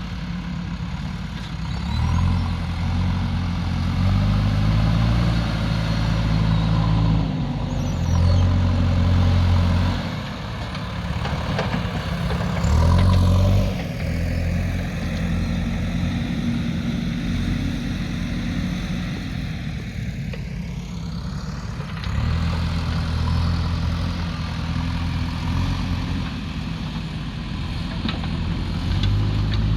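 Diesel engines of earthmoving machinery, a backhoe loader and an excavator, running at work. The low engine note swells and eases again and again as the machines take load.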